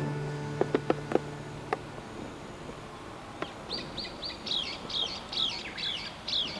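A small bird singing a quick series of about ten high, falling notes in the second half. Before it, about a second in, come four sharp clicks.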